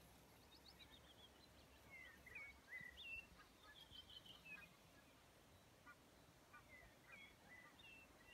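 Faint birdsong: a run of short chirps and whistles, busiest between about two and five seconds in, over faint low background noise.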